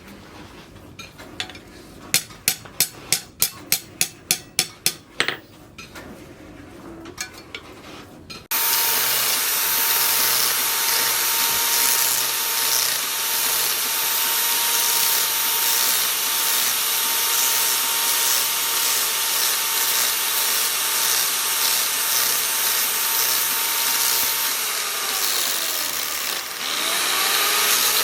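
Hammer blows on the steel of a rebar sickle, a quick run of about a dozen strikes in three seconds. Then a power grinder starts suddenly and runs steadily against the metal. Near the end it slows down and picks up speed again.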